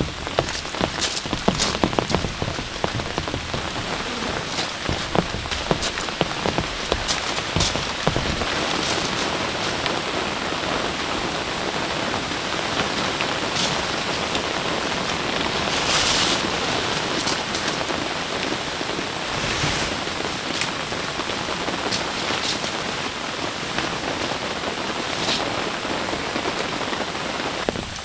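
Heavy rain falling steadily, a dense hiss with many individual drops striking sharply close by.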